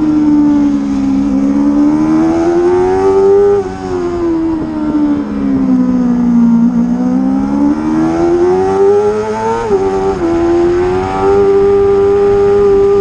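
Racing motorcycle engine at high revs, the pitch sweeping down and up as the rider brakes and accelerates. About ten seconds in there is a quick drop in pitch, like a gear change, and then it holds a steady high note.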